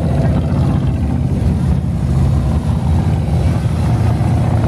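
Many motorcycles rumbling steadily as a convoy rides past, engines overlapping in a continuous low drone.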